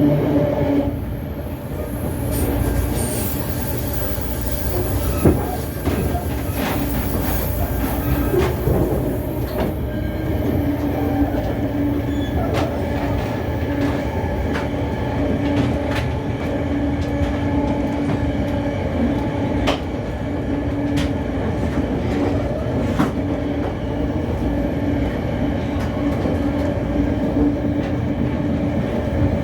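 Passenger train running on the rails, heard from inside a carriage: a steady rumble and hum with scattered clicks and knocks from the wheels and track, and a faint high wheel squeal in the first several seconds.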